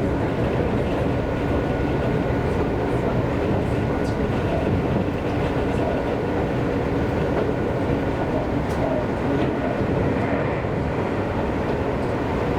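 Seibu Railway electric commuter train running at steady speed, a continuous rumble of wheels on rail and running gear heard from inside the passenger car, with a faint steady whine and a few light clicks over it.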